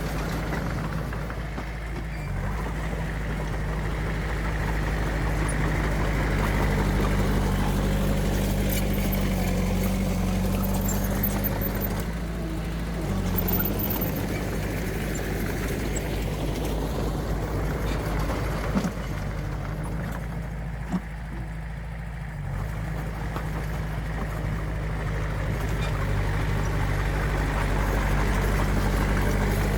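Diesel engine of a heavy earthmoving machine running steadily, its low drone shifting slightly in pitch and level. Two short knocks come about two-thirds of the way through.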